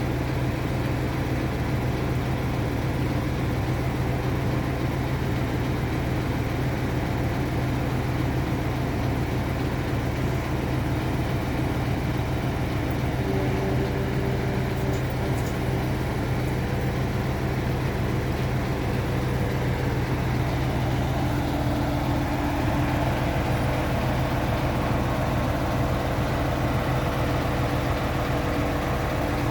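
Boatyard crane's engine running steadily with a low hum while it lifts a boat, and a faint higher whine joining about two-thirds of the way in.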